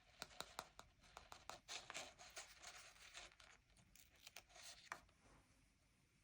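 Paper stickers being peeled off their backing sheet and pressed onto a sticker-book page: quiet peeling hisses mixed with small sharp clicks and taps, dying away about five seconds in.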